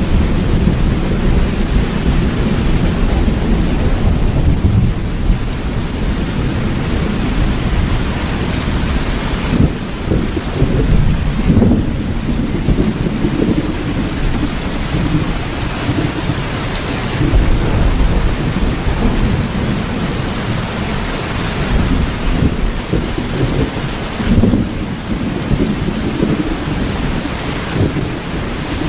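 Steady rain falling hard, with a low rumble underneath that swells and eases every few seconds.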